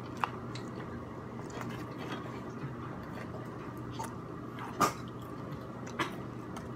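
A person chewing food with mouth sounds, with three sharp clicks: one just after the start, the loudest near five seconds in and another at about six seconds.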